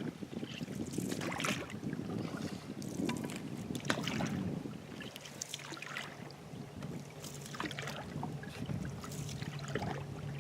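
Canoe paddle strokes through the water, with splashes and drips at irregular intervals every second or two, over a faint steady low hum.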